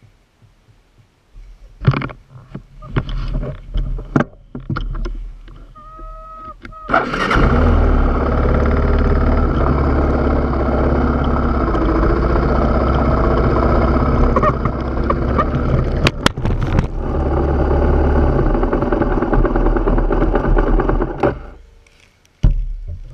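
A few clicks and knocks, then a trail motorcycle engine starts about seven seconds in. It runs steadily for about fourteen seconds and cuts out near the end.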